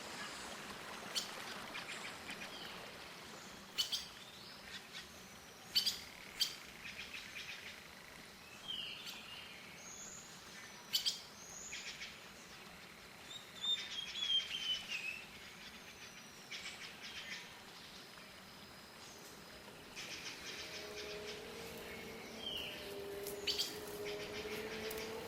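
Birds chirping and calling: scattered short high calls, with a few quick falling trills, over faint outdoor background.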